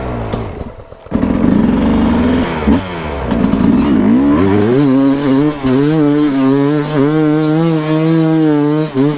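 Two-stroke dirt bike engine under throttle: the revs drop away near the start, pick up hard about a second in, rise and fall with the throttle, then hold high and fairly steady, wavering slightly, for the last few seconds.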